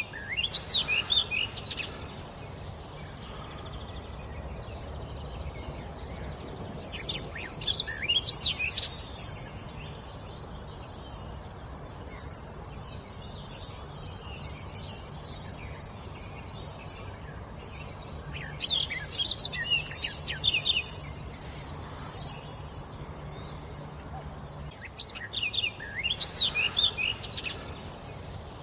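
A songbird singing four short phrases of quick, high whistled notes, each about two seconds long and spaced several seconds apart, over steady background noise.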